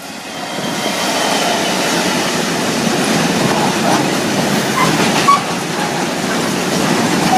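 A freight train hauled by Class 66 diesel locomotive 66732 passing over a level crossing. The sound grows over the first second, then settles into a steady rumble and clatter of wheels on the rails, with a few faint, short wheel squeals about five seconds in.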